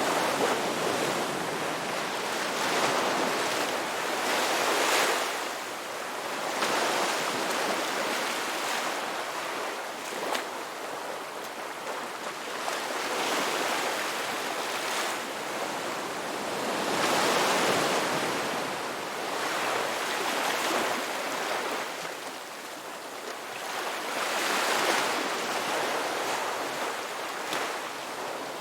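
Ocean surf: waves breaking and washing ashore in a continuous rush that swells and eases every few seconds.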